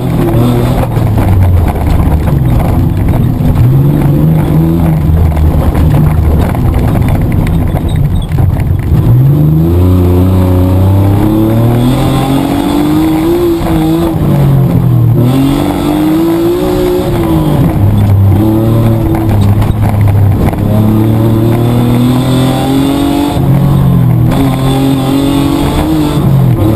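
Petrol Mitsubishi Triton 4WD's engine under hard driving, heard from inside the cabin: the engine note climbs and falls again and again as it revs up and comes off the throttle, with a sharp rise about nine seconds in.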